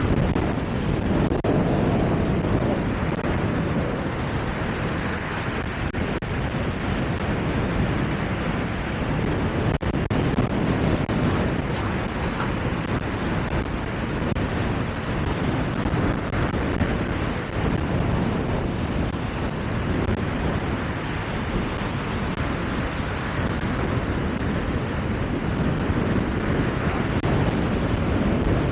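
Sea waves and wind, a steady rushing that swells and eases every few seconds, with wind buffeting the microphone.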